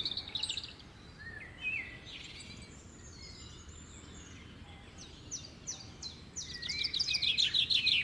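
Small birds chirping and calling in short, high notes. A quick run of repeated notes comes near the end.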